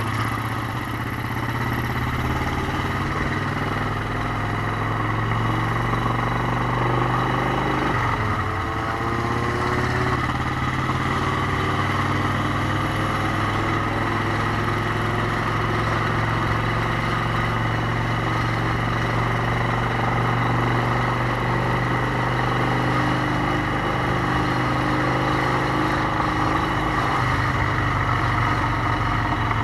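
Motorcycle engine running steadily, with a brief dip and rise in pitch about eight seconds in.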